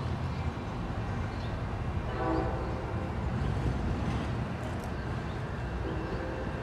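Bilevel passenger cars rolling past at street level with a steady low rumble. The horn on the train's EMD F59PHI locomotive sounds a short blast about two seconds in and again, faintly, near the end.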